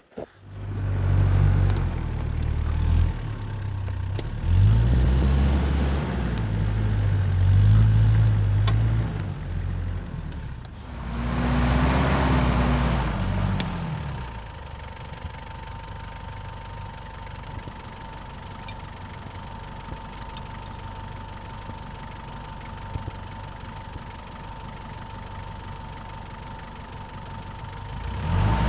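A vehicle engine starts just after the opening and runs with its speed rising and falling for about the first half. It then settles to a quieter, steady running sound with a thin constant whine.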